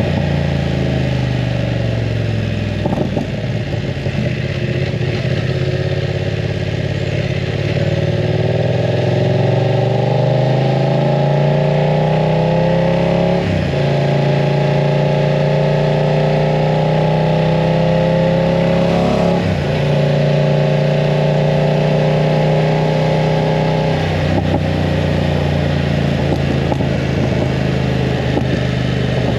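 BMW F900 R parallel-twin engine with a full exhaust system, accelerating through the gears: its pitch climbs steadily, dips sharply at two upshifts, holds steady, then falls as the throttle closes near the end.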